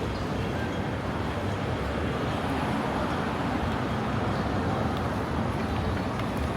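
Steady city street traffic noise: the continuous rumble of passing road vehicles.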